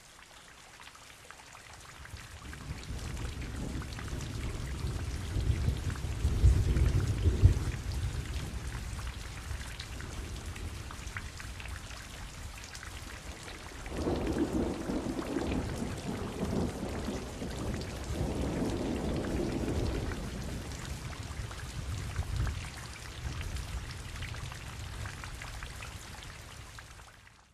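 Rain falling steadily while thunder rolls twice. The first long low rumble builds to a peak about six to seven seconds in; the second comes about fourteen seconds in and lasts several seconds. The sound cuts off suddenly at the end.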